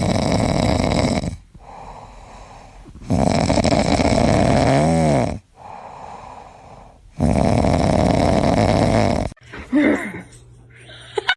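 Loud snoring: three long rasping breaths about four seconds apart, the middle one carrying a short whistling squeak.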